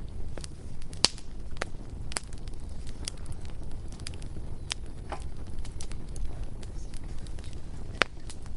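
Bonfire burning with irregular sharp crackles and pops over a low rumble; the loudest pops come about a second in and again near the end.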